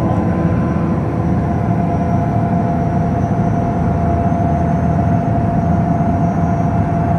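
Boat engine running steadily: a loud, even low rumble with a steady hum.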